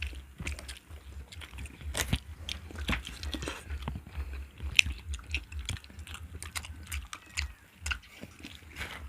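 People eating close to the microphone: biting and chewing with irregular wet smacking clicks. A low hum runs underneath and stops about seven seconds in.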